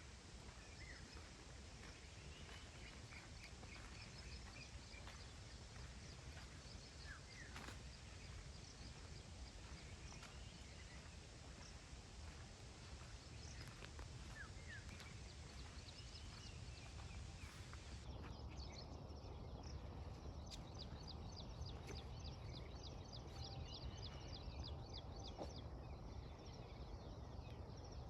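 Birds chirping and calling faintly over a low steady rumble, with many short high chirps and trills. About two-thirds of the way through, the sound shifts to a denser run of rapid, high-pitched chirps.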